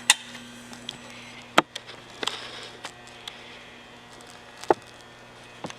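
Quiet room tone with a faint steady low hum, broken by four or five isolated sharp clicks spread out over the pause, the first two the loudest.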